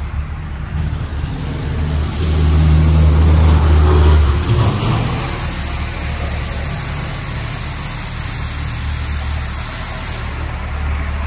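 Porsche 911 GT3's flat-six engine running at low speed, growing louder about two seconds in and then settling to a steady hum. A steady hiss sets in at the same moment and stops shortly before the end.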